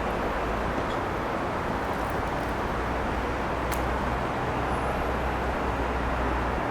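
Steady city street traffic on wet roads: a constant hiss of tyres on wet tarmac over a low engine rumble, with one sharp click about halfway through.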